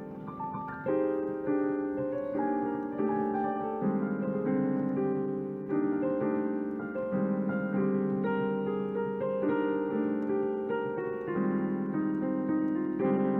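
Jazz piano playing chords in a steady, unhurried rhythm.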